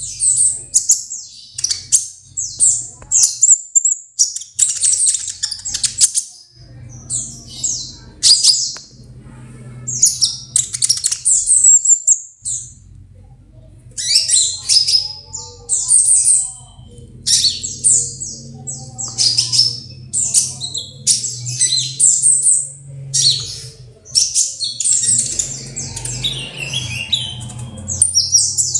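A songbird singing in short, rapid, high-pitched chirping phrases, repeated about every second, over a low steady hum.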